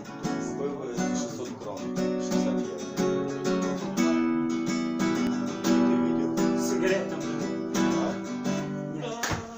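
Acoustic guitar strumming chords, changing chord about every second, as the instrumental opening of a song.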